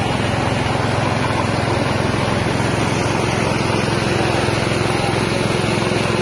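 Small engine-driven rice milling machine running steadily, its engine and huller making one constant, unbroken sound.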